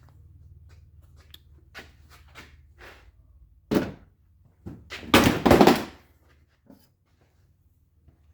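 A series of knocks and clunks over a faint low hum, like parts and tools being handled, with one loud knock about four seconds in and a louder clattering clunk lasting about a second just after five seconds.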